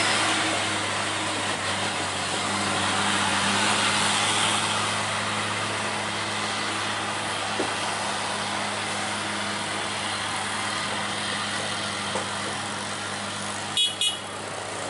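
Diesel truck engine running steadily with a low hum, and two sharp clicks close together near the end.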